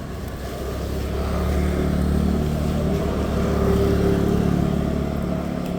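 A motor vehicle passing close by on the road: its engine grows louder to a peak about four seconds in, then fades.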